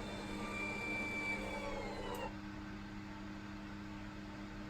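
W&H Lisa VA131 autoclave's small door-locking motor whirring, then winding down in pitch and stopping with a click about two seconds in as the door locks; a steady low electrical hum from the machine continues.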